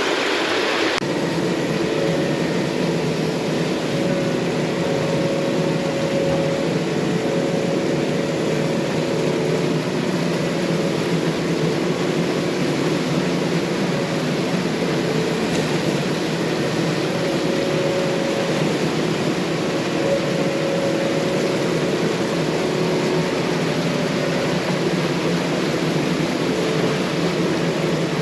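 Yanmar mini excavator's diesel engine running steadily at working speed, with small shifts in pitch as it takes load while digging. About a second in, a rush of running water cuts off.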